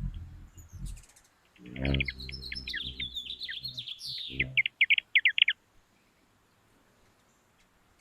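Hummingbirds at a feeder: a low, even wing hum at the start and again from about two seconds in, while a bird chitters in rapid, high notes. The calls end just past the five-second mark in a quick run of sharp, loud chips.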